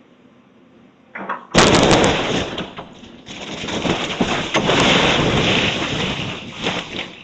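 House demolition: a sudden loud crash about a second and a half in, then several seconds of dense crackling and crunching of breaking wood and falling debris, swelling again midway before dying down.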